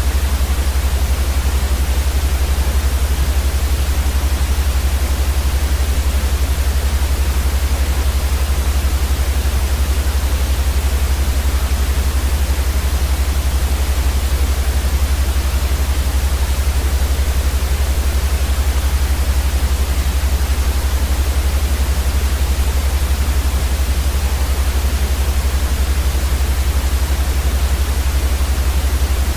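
Continuous synthetic white noise: a steady, even hiss across the whole range with a stronger low rumble underneath, unchanging throughout.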